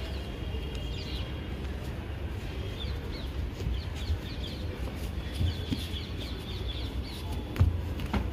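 Birds chirping with many short, high, falling calls and a few held notes. A single sharp thud near the end, as of a kick or a stamping bare foot.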